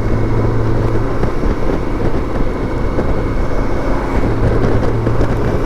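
BMW K1600 GTL's inline-six engine running steadily while riding, under heavy wind and road noise. A low steady engine hum weakens in the middle and returns near the end.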